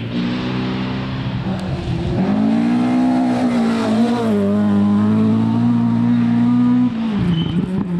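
Rally car engine running at high revs under load, its pitch dipping and climbing again about two seconds in, then held high before a sudden drop in revs near the end.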